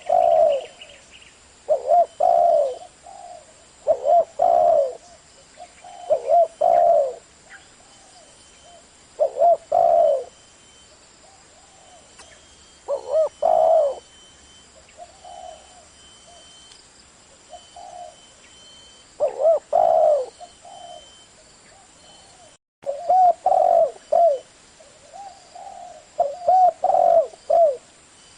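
Spotted dove cooing: phrases of a few low notes, repeated every one to three seconds, some calls fainter than others. There is a brief dropout about two-thirds of the way through.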